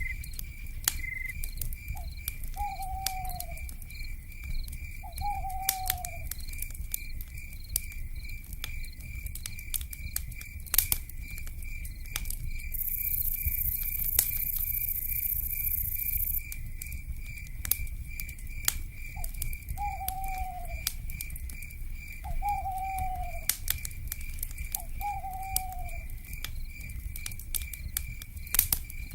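Wood fire crackling with scattered sharp pops over a low rumble, under a steady fast-pulsing insect chirp. An owl gives five short falling calls: two early on and three in the second half. A brief hiss comes in around the middle.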